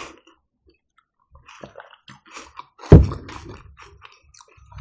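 Close-miked eating sounds: soft chewing and wet mouth clicks from a person eating a chocolate-coated wafer. One louder, sudden sound comes about three seconds in.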